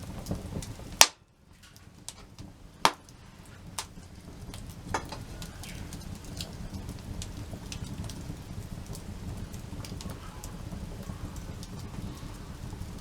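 Wood campfire crackling, with a steady low hiss and scattered sharp pops of burning wood; the loudest pops come about a second in and near three seconds.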